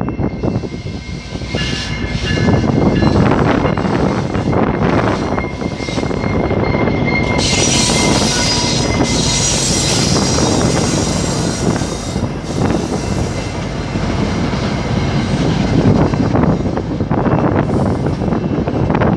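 Commuter train rolling on the rails with a steady, heavy rumble. High-pitched wheel squeal sets in about a second and a half in, then climbs to a higher, shriller squeal from about eight to twelve seconds in before fading.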